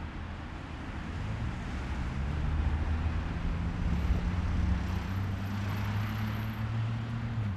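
A motor vehicle passing close by: a steady low engine hum with road and wind noise that swells in the middle, the hum dropping in pitch near the end.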